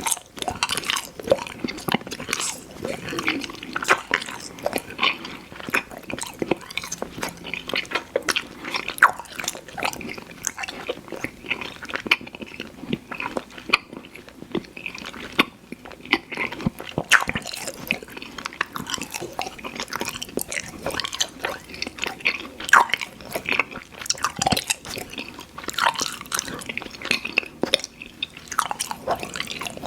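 Close-miked chewing of soft fruit chew candy: sticky, wet mouth smacks and clicks in an irregular stream, easing off briefly about halfway through before picking up again.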